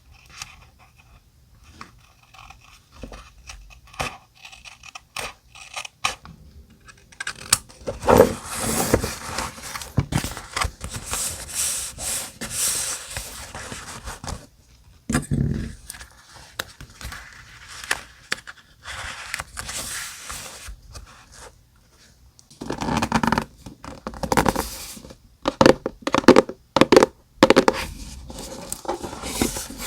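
Paper being handled for scrapbooking: light taps and clicks at first, then rustling, scraping and tearing of paper, with sharp crackly bursts near the end.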